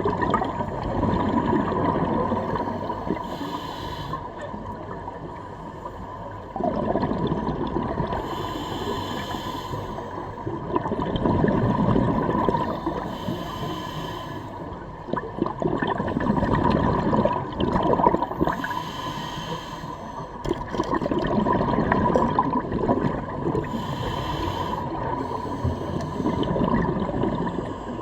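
Scuba diver breathing through a regulator underwater: a hiss on each breath and bubbling exhalations swelling and fading, about every five seconds.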